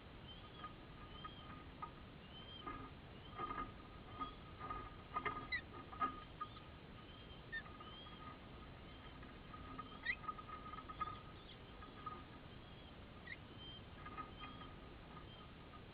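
Birds chirping: short high chirps repeated about once a second, with a few quick rising squeaks and faint taps between them.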